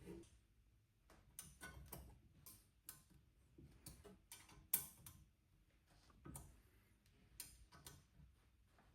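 Faint, irregular clicks and taps of bolts and tools as the group head is bolted back onto an espresso machine, the sharpest a little before the halfway point.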